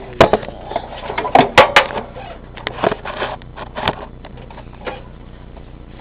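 Irregular sharp knocks and rattles of hands working on a small mini-bike engine, in about five loud clusters, with the engine not running.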